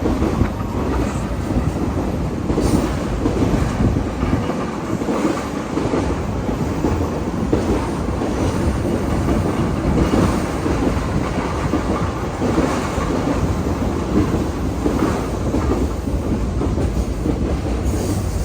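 Train cars rolling past at close range: a steady rumble with wheels clicking over the rail joints.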